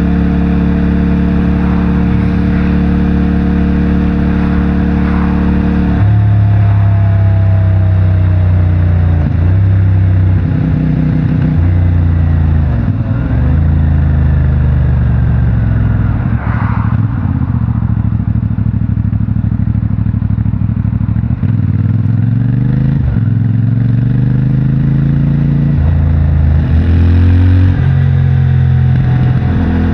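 CFMOTO 450MT's parallel-twin engine through its stock exhaust, riding at steady revs for a few seconds. From about six seconds in, the engine gets louder and the revs rise and drop again and again as it shifts through the gears.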